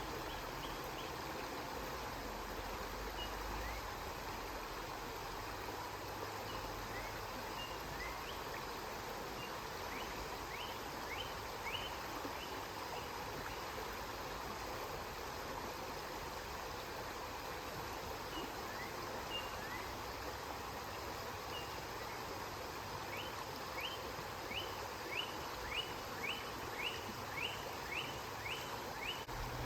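River water flowing steadily. Over it come short high chirps in quick runs, a cluster about ten seconds in and a run of about two a second near the end.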